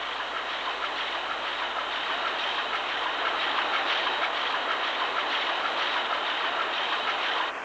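Engine-room din of a large two-stroke crosshead marine diesel running: a steady mechanical clatter with faint regular ticks.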